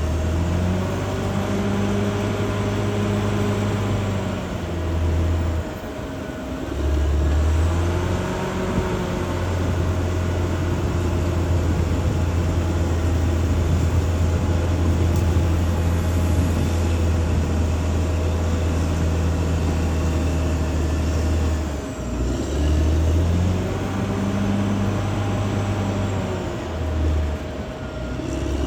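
Caterpillar D6R XL bulldozer's diesel engine working under load, its pitch rising and falling repeatedly as the revs change, with a steady whine over it. The engine note dips briefly a few times.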